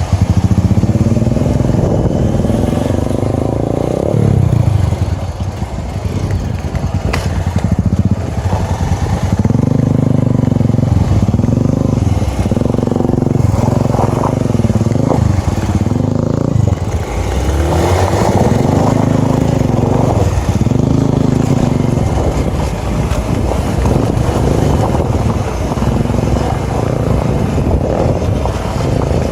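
Small motorcycle engine running under way, its pitch rising and falling again and again as the bike speeds up, changes gear and eases off.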